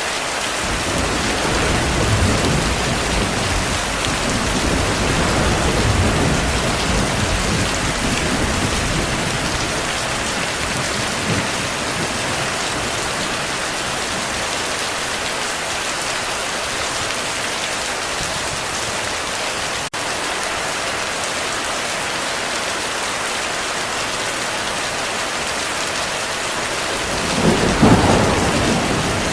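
Heavy rain falling steadily, with a low roll of thunder through the first ten seconds or so. A louder rumble of thunder swells near the end.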